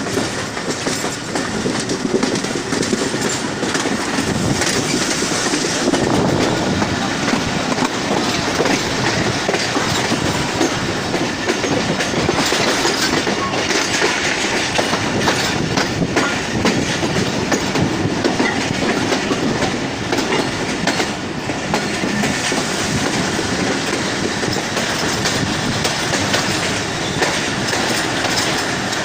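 Passenger train rolling past at close range, its coach wheels clattering steadily over the rail joints.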